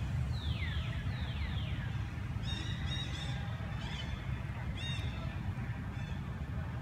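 Birds calling in the trees: two falling whistles in the first two seconds, then a series of short, high chirps, over a steady low rumble.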